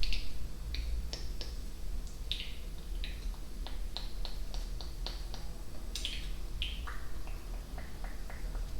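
ASMR mouth sounds close to the microphone: a rapid series of tongue clicks and lip pops, several a second, some with a brief pitched tone.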